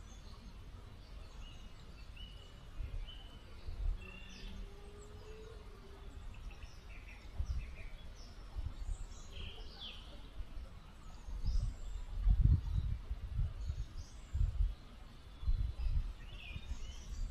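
Small river flowing softly, with songbirds chirping and whistling now and then over it. Irregular low rumbles come and go, louder in the second half.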